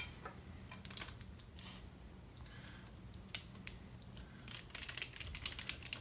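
Light metal clicks and taps of hand tools and small parts being handled on a chainsaw's bar stud. The clicks are sparse at first and come thick and fast from about four and a half seconds in, over a faint steady hum.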